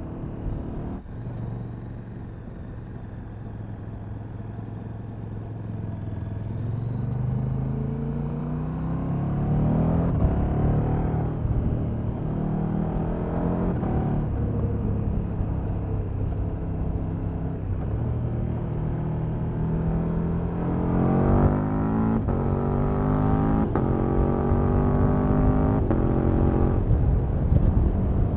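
KTM Super Duke V-twin with its stock exhaust, running steadily, then accelerating hard several times: the engine note climbs in pitch and drops back at each gear change. This happens once about a third of the way in and again in a quick run of shifts past the two-thirds mark, with wind rush throughout.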